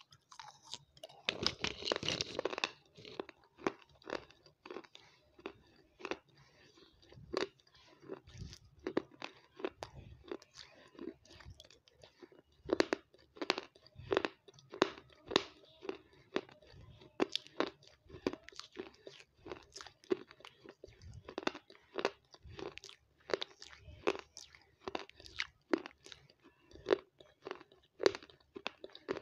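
A person chewing crunchy, crumbly food right at the microphone. A bite lands in the first couple of seconds, then comes a long run of sharp, irregular crunches, about one or two a second, as the food is chewed.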